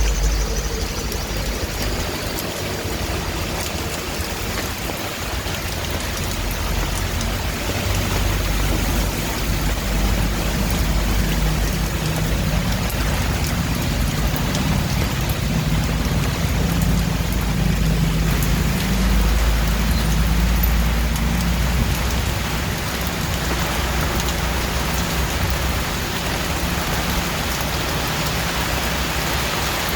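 Steady rainfall, an even hiss of drops with a continuous low rumble underneath.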